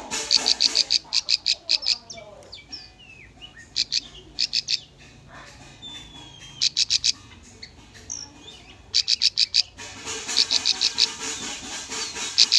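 Bar-winged prinia (ciblek) singing: repeated bursts of rapid, sharp high notes, each burst lasting about a second, with fainter chirps between the bursts.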